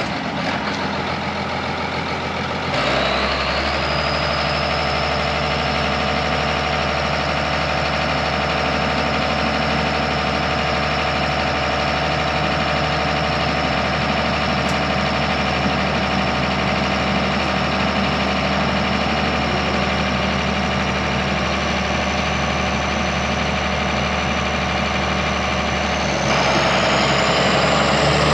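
A tractor engine runs steadily as the tractor works a trailer forward and back. The engine note steps up about three seconds in, and a high whine climbs near the end as the engine picks up again.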